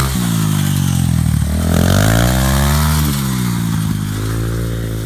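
Dirt bike engine revving: the pitch drops, rises again about a second and a half in, then falls back to a lower, steady run near idle.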